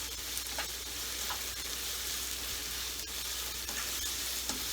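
Sliced onion and green chilies sizzling steadily as they fry in hot mustard oil in a pan, with a few light clicks of stirring.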